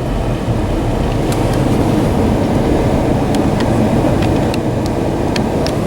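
Steady low rumble of a 2013 Dodge Ram 1500 pickup driving on a snow-covered road, its Hemi V8 and tyres heard from inside the cab, with scattered light ticks.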